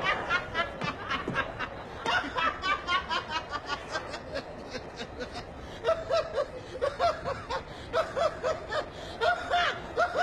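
Laughter in a fast, steady run of short breathy snickers, turning into pitched 'ha' sounds from about six seconds in.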